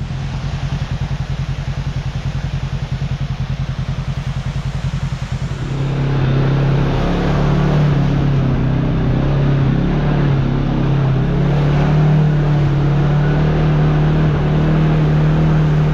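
Kawasaki KRX side-by-side's parallel-twin engine running at low revs with an even, rapid pulsing, then opened up about six seconds in to a louder, steady drive note as the machine pulls away under load.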